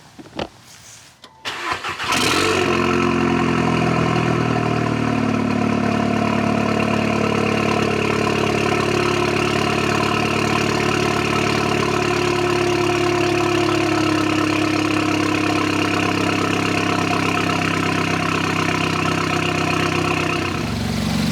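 2015 Audi A3 2.0T's turbocharged four-cylinder, with a CTS downpipe and Borla exhaust, starting about two seconds in and then idling loudly and steadily, settling slightly lower in pitch over the first few seconds. The engine has just been flashed with a Stage 2 tune.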